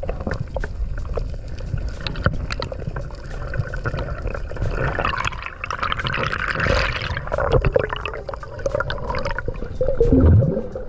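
Water gurgling and bubbling around a diver's camera, with frequent short, sharp clicks throughout. A hissing rush of bubbles comes a little before the middle, and a loud low gurgle falls in pitch near the end.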